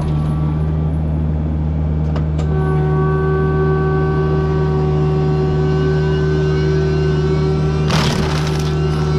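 Diesel engine of a heavy land-clearing machine running steadily under load with a forestry mulching head. About two and a half seconds in, a steady high whine joins as the mulcher drum spins, and near the end there is a short, harsh burst of noise.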